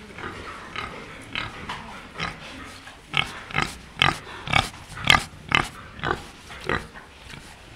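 Pigs grunting in a rhythmic series of short grunts, about two a second, that grow louder from about three seconds in. The sound comes from a sow nursing a litter of piglets, and the steady rhythm is typical of a sow's nursing grunts.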